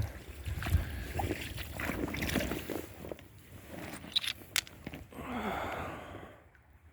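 Shallow creek water sloshing and splashing around someone wading, with scattered small clicks and knocks; a longer swish of water comes a little past halfway.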